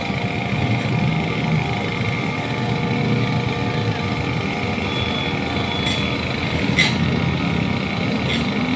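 An engine running steadily, with a few short clicks in the second half.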